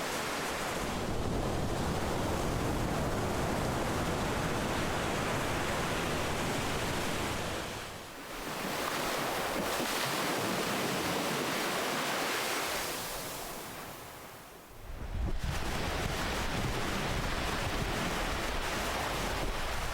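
Ocean waves breaking and washing ashore: a continuous wash of surf that eases off briefly about eight seconds in, fades again near fifteen seconds, then swells back as the next wave comes in.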